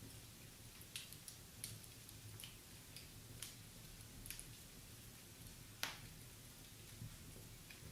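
Wood fire in a fireplace crackling: sharp, irregular pops of burning logs over a low steady hum, the loudest pop about six seconds in.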